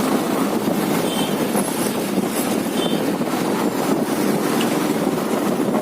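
Steady wind rush on the microphone with road noise from a moving motorbike.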